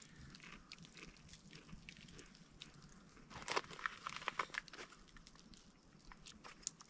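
Faint crackling and crunching clicks of a spice rub being handled and shaken onto tomahawk beef steaks, with a busier run of sharp clicks about three and a half seconds in.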